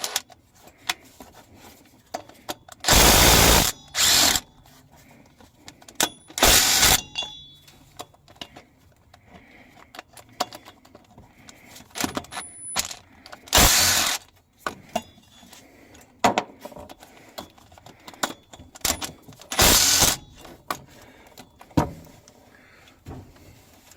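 Small Milwaukee quarter-inch-drive impact tool hammering in five short bursts to break loose the bolts of an engine's front fan and pulleys, with metal tool clatter and clicks between the bursts.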